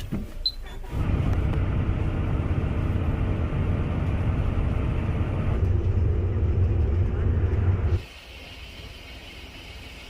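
Low, steady rumble of a bus ride, engine and road noise heard from inside the vehicle. It starts about a second in and cuts off abruptly about eight seconds in, giving way to a much quieter hiss.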